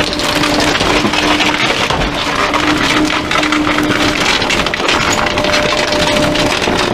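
Garbage truck's compactor crushing bulky items: a dense run of wood cracking and splintering over a steady hydraulic hum.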